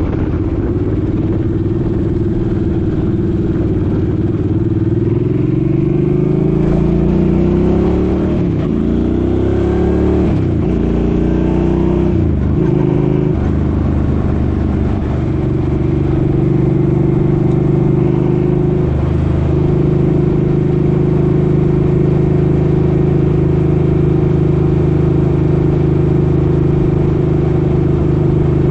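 Suzuki Boulevard M50's V-twin engine pulling up through the gears, its pitch rising and dropping back with each of about three shifts, then holding steady at cruising speed.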